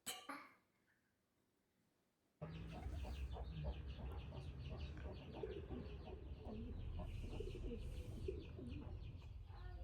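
Birds calling outdoors, a quick run of high chirps with lower wavering calls, over a steady low rumble of background ambience that comes in suddenly about two and a half seconds in after a near-silent start.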